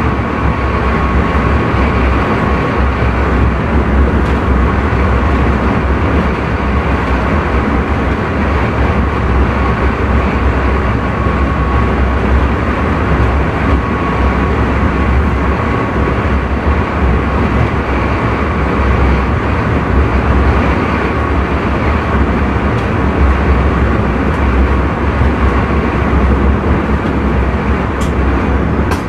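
Intercity train running, heard inside the driver's cab: a steady, loud rumble of the train on the rails with a faint steady whine above it.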